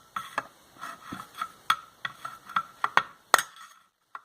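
A quick run of sharp metallic taps as a screwdriver is tapped and worked around the edge of an Ametek vacuum motor's housing to pry it apart, irregular at about two to three taps a second, with the loudest taps about three seconds in.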